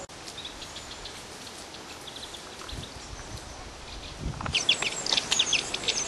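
Small woodland birds calling faintly. From about four and a half seconds a rapid run of loud, sharp chirps comes close by.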